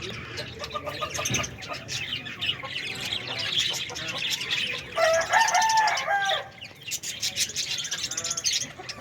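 Budgerigars chirping and chattering in quick high notes, with one louder, longer call about five seconds in.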